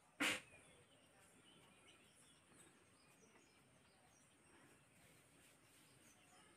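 Near silence with faint bird chirps, broken by one short, sharp knock just after the start.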